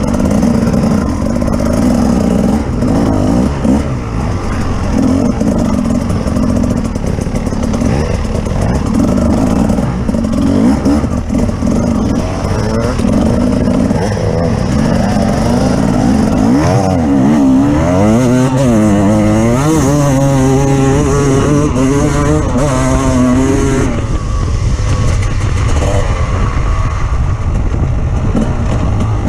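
Off-road vehicle engine running under load throughout, its pitch rising and falling with the throttle. Around the middle it climbs in pitch several times in steps, as if through the gears, then drops back to a lower, rougher note, with some clatter.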